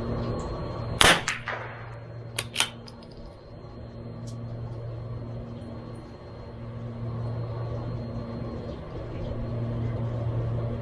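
A single shot from a CZ 457 MTR bolt-action .22LR rifle about a second in, followed about a second and a half later by two quick sharp clicks, typical of the bolt being worked. A steady low hum runs underneath.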